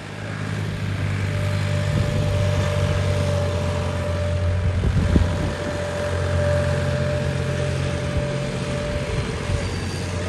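Tractor engine running steadily at a constant speed, with a steady low drone.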